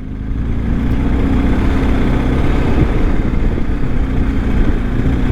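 BMW R1250's boxer-twin engine running as the motorcycle rides along, with steady wind noise over it. The engine picks up a little in the first second.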